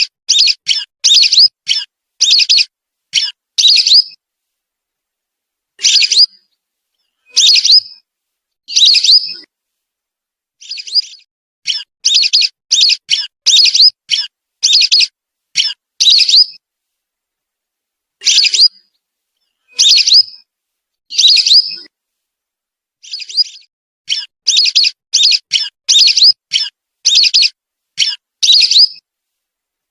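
Whistling duck (belibis) calls used as a bird lure: short, high whistled notes in quick groups of two to six, with clean silent pauses of a second or two between groups.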